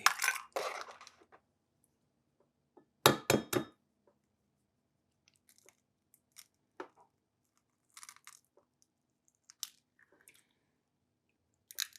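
A hen's egg being cracked against the edge of a bowl: a quick cluster of three sharp cracks about three seconds in, followed by faint scattered clicks and taps of the shell being handled.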